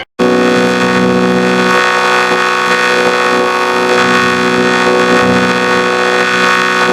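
A loud, steady, heavily effects-processed drone of many stacked tones, like a held horn chord, starting after a brief gap and holding unchanged without a break.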